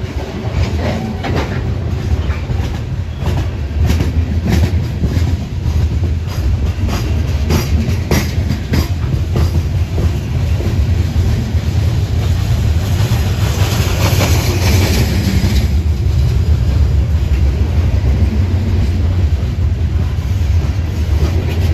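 Coal gondola cars of a Union Pacific coal train rolling past close by: a steady low rumble with clicking and clattering of the wheels over the rail. A harsher high-pitched hiss from the wheels rises for about two seconds roughly two-thirds of the way through.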